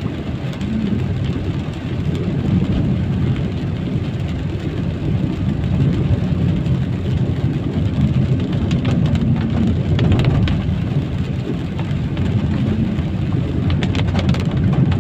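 Steady low rumble of vehicle engines and tyres on a wet road in the rain, with rain noise over it. A few sharp ticks come about nine seconds in and near the end.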